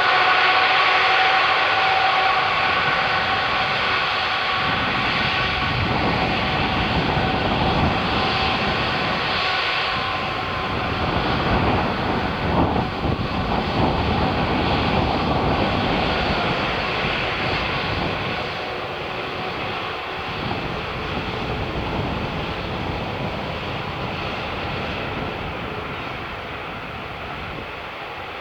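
Airbus A380 jet engines at takeoff thrust: a steady whine fades over the first ten seconds, while a deep, crackling rumble swells to its loudest about halfway through, then slowly dies away.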